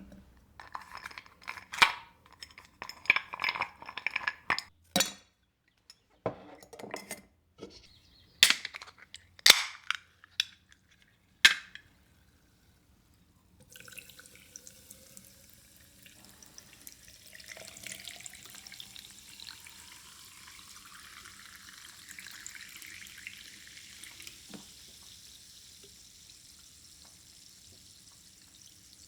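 Glass and dishes clinking and knocking against each other for the first twelve seconds or so. Then water runs into a container, its pitch rising as the container fills.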